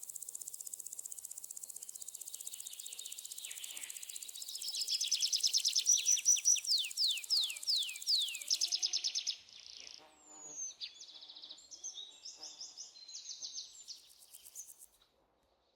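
A high-pitched insect drone, like a cicada's, that stops abruptly about nine seconds in. Over it a songbird sings a fast trill ending in a run of downslurred notes, followed by assorted short bird chirps.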